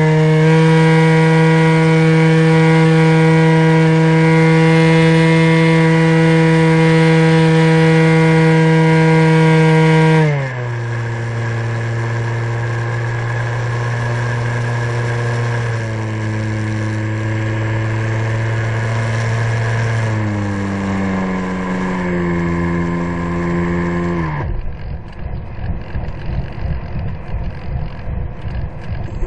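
Electric motor and propeller of an RC model Cessna 182 running at high throttle with a steady whine, which drops in pitch about ten seconds in and steps lower several more times as the throttle comes back. About twenty-five seconds in the motor is throttled right down, leaving choppy wind noise.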